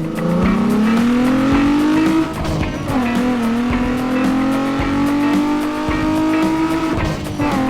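Sportbike engine revving sound effect: the pitch climbs for about two seconds, drops, then holds and slowly rises again. Background music with a beat runs underneath.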